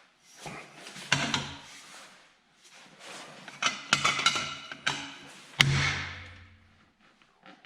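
Metal tools clanking and striking against the tractor's steel frame and bolts during teardown: a few separate sharp knocks, a quick cluster of them about four seconds in, and a heavier strike over five seconds in that rings for about a second.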